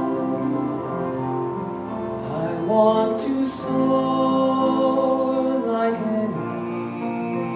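Live song performance: male singing with instrumental accompaniment, held notes moving through a slow melody.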